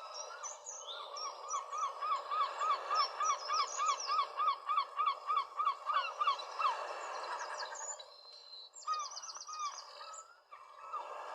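A bird calling a long, even series of repeated pitched notes, about three a second for some five seconds, then a few scattered calls and a brief fast high trill about nine seconds in, over a steady background hiss.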